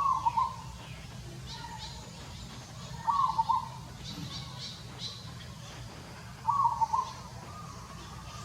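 A bird calling three times, about three and a half seconds apart, each call a short phrase of a few quick notes, with fainter high chirps between the calls.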